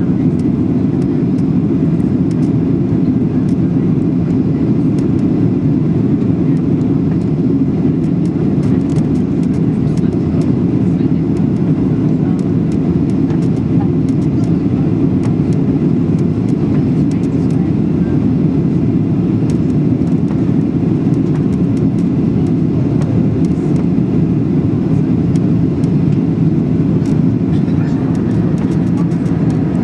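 Steady, loud rumble of engine and airflow noise inside the passenger cabin of a Boeing 737-800.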